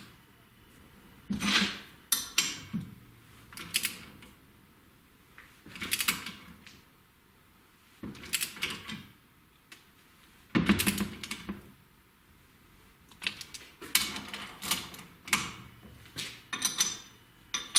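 Ratcheting torque wrench with a 17 mm socket tightening bolts on a motorcycle frame, in several short bursts of ratchet clicking with pauses between strokes.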